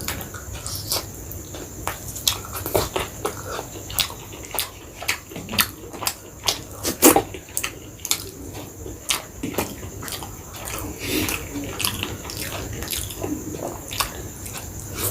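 Close-miked chewing of chicken biryani and chicken chaap: many short wet mouth clicks and lip smacks at an uneven pace.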